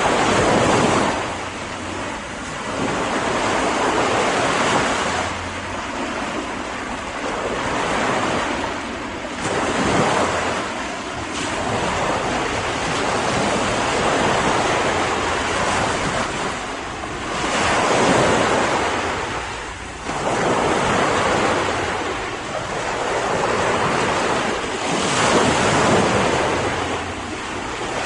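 Ocean waves breaking and washing up on a beach, the surf swelling and ebbing every few seconds, with some wind noise.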